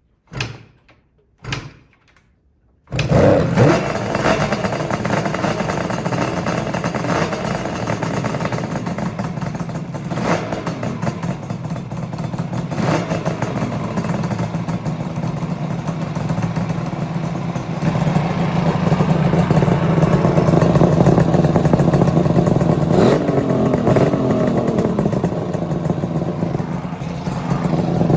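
Kawasaki KH250 air-cooled two-stroke triple with separate expansion-chamber exhausts being started. After two short sounds it catches about three seconds in and keeps running, louder from about two-thirds of the way through, with a quick rev near the end.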